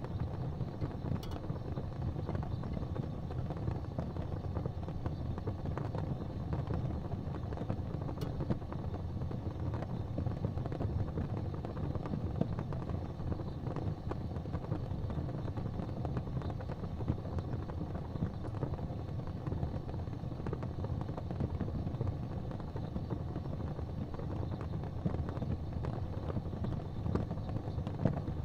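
Fireplace ambience: a steady low rumble of a burning fire with a few faint, sparse crackles.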